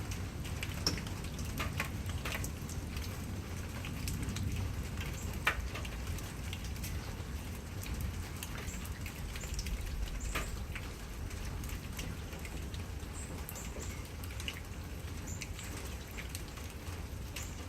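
Steady rain falling, with scattered individual drops striking nearby surfaces in distinct taps.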